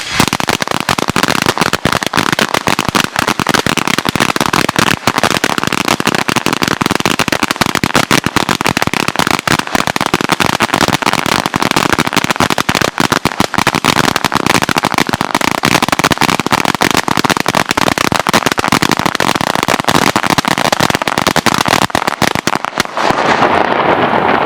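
A 900-shot firecracker mat (Salon Roger Skull Thunder 900 nitrate mat) going off: a fast, unbroken string of loud cracks that stops abruptly near the end, leaving a fading rumble.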